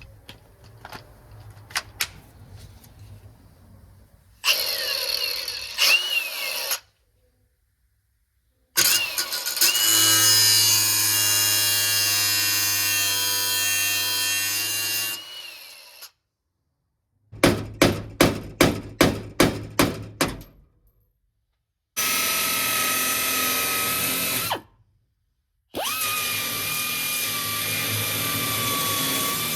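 Handheld power tool removing window-regulator rivets in several separate runs. It gives a steady high whine that winds down, then a quick series of short bursts, then more steady running.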